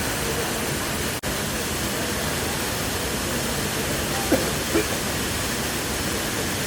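Waterfall rushing: a steady, even roar of falling water, broken by a sudden brief dropout about a second in.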